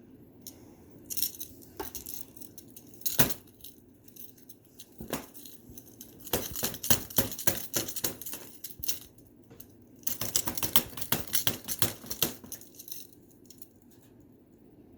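Crinkly rustling and clicking from a crinkle play tube being scrambled through by a pet. It comes in short bursts at first, then in two longer, dense runs in the middle and about two-thirds of the way through.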